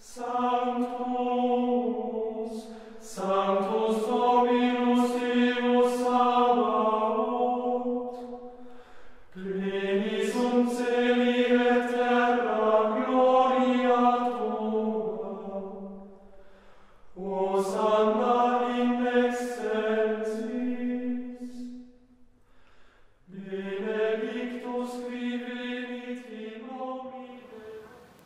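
Sung chant in unison: long, steadily held notes in about five phrases of several seconds each, with short breaks between them.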